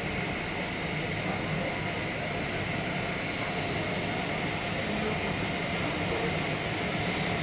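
Jet airliner engines running steadily: a continuous rumble with faint steady high whines over it.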